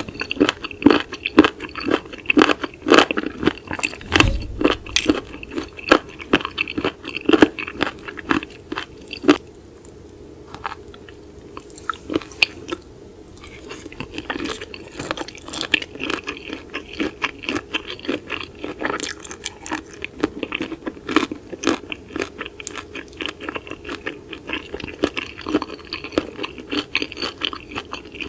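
Close-miked chewing of raw seafood: crunchy, wet bites in a steady rhythm. A quieter stretch comes about ten seconds in, then the chewing picks up again.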